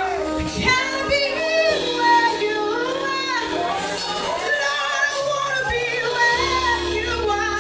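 Worship music: a female voice singing a wavering melodic line over sustained accompaniment chords that change every second or two.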